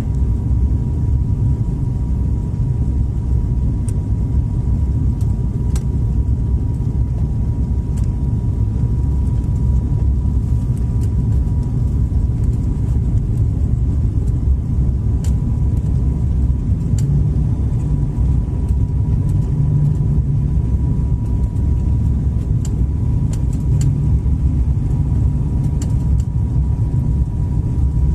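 Airliner cabin noise: a loud, steady low rumble of engines and airflow, with a thin steady whine running through it.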